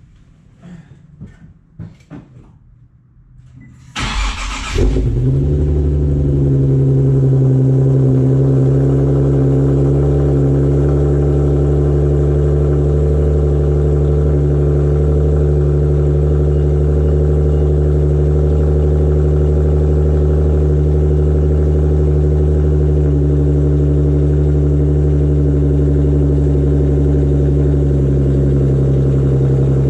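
A 2013 Nissan 370Z's 3.7-litre V6 cold-starting after five months in storage: a few faint clicks, then about four seconds in the starter cranks and the engine catches at once, its revs swelling briefly before it settles into a steady, really loud idle.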